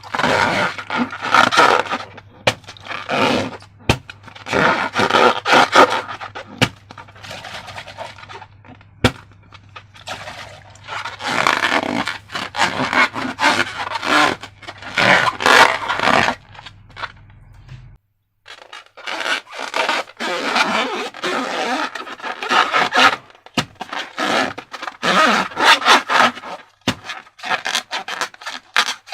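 Slime being handled and worked by hand, giving irregular bursts of crackling and scraping with scattered sharp clicks. There is a brief drop to silence about 18 seconds in.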